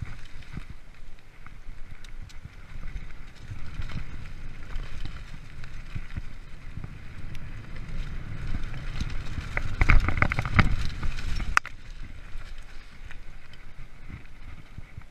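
Freeride mountain bike riding a forest trail: a steady rumble of tyres on the ground with scattered clicks and rattles, and a louder cluster of knocks about ten seconds in, as over a rough patch.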